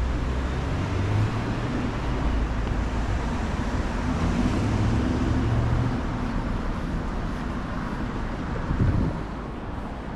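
City street traffic: motor vehicles passing close by with a low engine rumble and tyre noise, easing off about nine seconds in.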